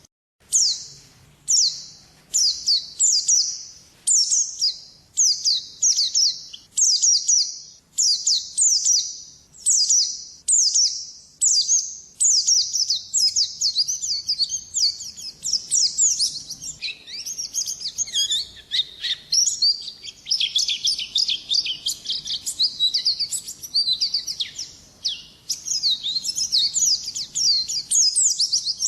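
White-eye (pleci) singing: rapid high, downward-sweeping chirps. At first they come in separate phrases about two a second, then about halfway through they run together into a continuous twitter.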